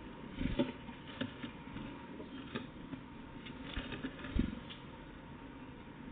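Irregular light taps and patter, a handful of short knocks at uneven intervals, with one duller, stronger knock about four and a half seconds in.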